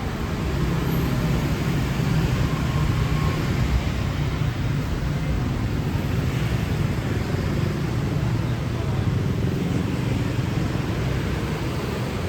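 City street traffic: motor vehicles running past in a steady low rumble with road noise, a little louder for a few seconds near the start.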